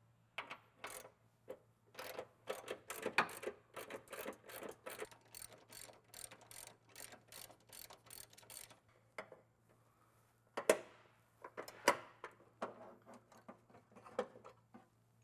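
Ratchet wrench clicking in quick runs while working exhaust bolts, with a lull partway through and a couple of louder metallic clacks after it, over a faint steady low hum.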